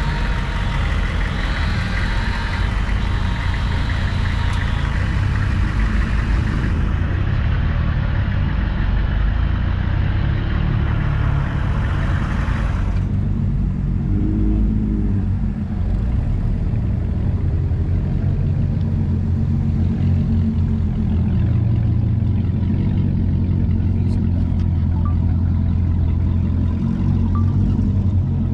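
Car engine running with a steady low rumble; a higher hiss over it cuts off about thirteen seconds in.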